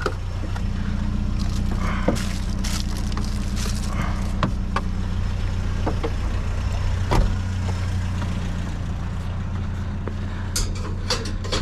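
Truck engine running steadily at a constant pitch, with scattered light clicks and knocks.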